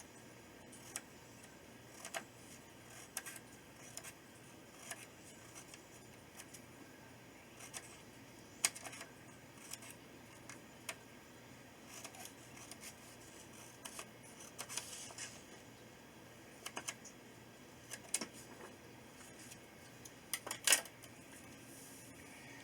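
Faint, scattered small clicks and taps from handling planner supplies at a desk, with a brief rustle about fifteen seconds in and a sharper click near the end.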